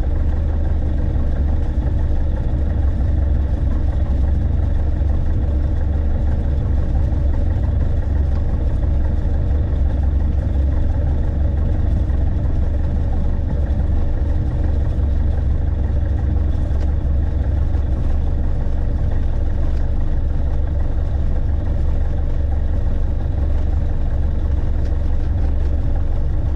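Light aircraft engine running steadily, a continuous deep drone with no change in pitch or level.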